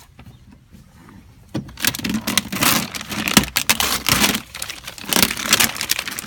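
Metallic clattering, scraping and clicking of hands working at the door lock and its linkage inside a car door, starting about a second and a half in.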